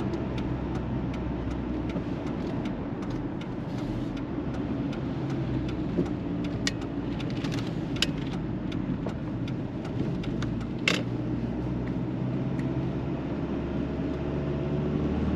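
Ford Ranger pickup truck driving, a steady low engine hum with road noise, and a few sharp clicks. The engine note rises near the end.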